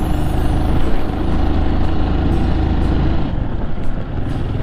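Single-cylinder trail motorcycle engine running under way on a dirt forest road, a steady low drone; its note drops about three seconds in as the throttle eases.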